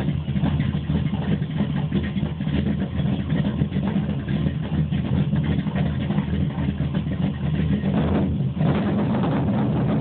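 Chevrolet ZZ502 big-block V8 crate engine with Powerjection III throttle-body fuel injection running at idle, while the owner is trying to sort out its cold-start problems. Its sound changes about eight and a half seconds in, then runs more evenly.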